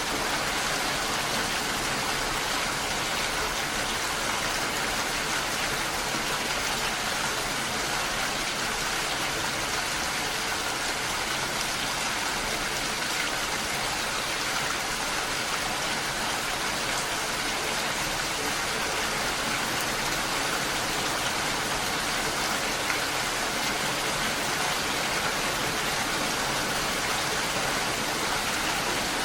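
Steady, even rain falling, a constant hiss of many drops with no single drop standing out.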